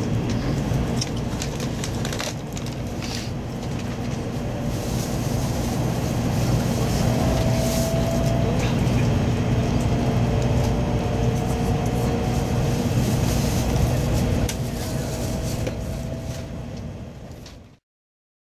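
Kyushu Shinkansen train running, heard from inside the carriage as it pulls out and gathers speed: a steady low rumble that grows louder over the first few seconds, with a faint whine in the middle. It fades away near the end.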